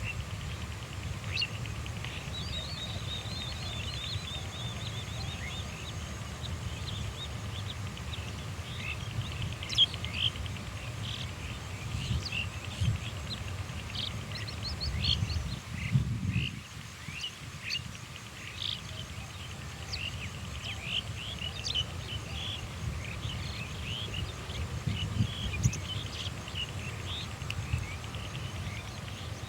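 Many small birds chirping in short, quick calls, with a high trill in the first few seconds, over a steady low rumble.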